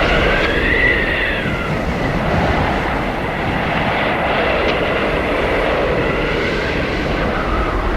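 Blizzard wind howling steadily over a low rumble, with a whistling tone that rises and falls in pitch.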